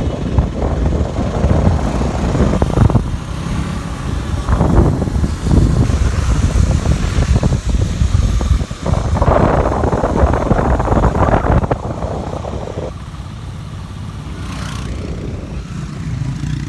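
KTM Duke 200's single-cylinder engine running as the motorcycle is ridden, under loud wind buffeting on the microphone that swells and eases several times and settles down about three-quarters of the way through.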